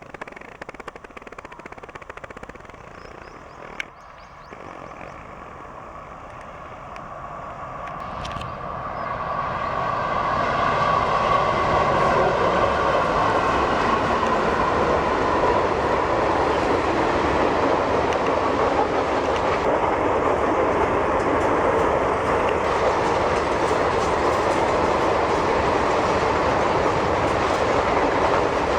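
Express train approaching and rushing past at speed: the rumble builds from about four seconds in, with a ringing hum as it nears, to a loud, steady roar of wheels on rails from about ten seconds in.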